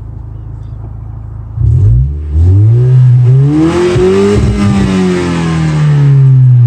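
2018 Lexus IS 300's turbocharged 2.0-litre four-cylinder with a muffler-delete exhaust, heard from inside the cabin. It idles, blips once about a second and a half in, then revs up to a peak around four seconds in and slowly falls back toward idle.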